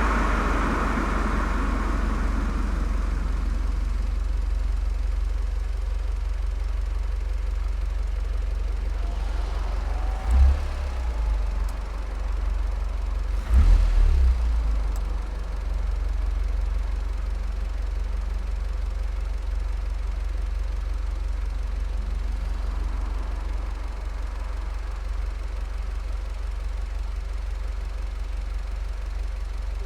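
Volkswagen Golf 7 GTI's turbocharged 2.0-litre four-cylinder idling steadily through an aftermarket Cox exhaust, a low, even drone. Louder noise dies away over the first couple of seconds, and there are two brief swells about ten and fourteen seconds in.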